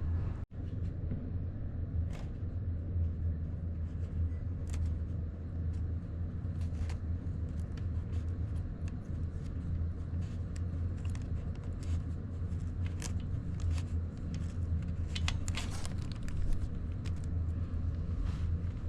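Honda Grom 125's single-cylinder four-stroke engine running steadily, with light scattered ticks and a momentary drop-out about half a second in.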